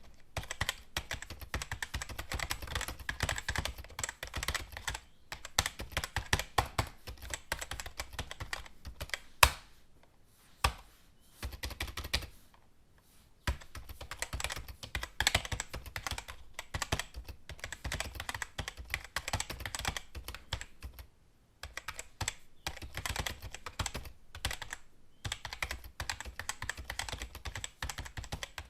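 Computer keyboard being typed on in quick runs of key clicks, broken by short pauses, with one louder single keystroke about nine seconds in.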